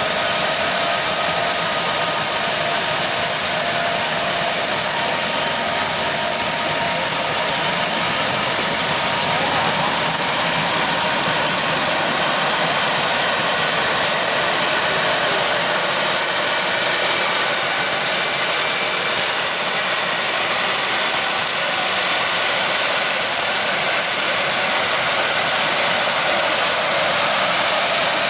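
Large farm machinery running steadily during corn harvest, likely combines and tractors with grain carts. It makes a dense, even engine and machine noise with a few faint steady tones in it, and no change in level.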